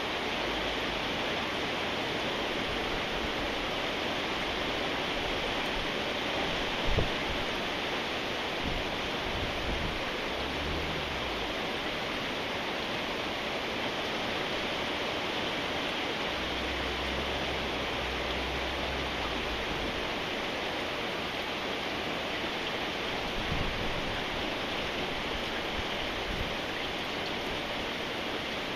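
Steady rain falling, an even hiss throughout, with one brief knock about seven seconds in and a low rumble for a few seconds around the middle.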